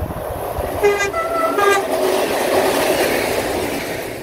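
Passenger train sounding a short horn call in two alternating tones about a second in. It then passes close by at speed, its wheel and rail noise swelling to a peak and fading away.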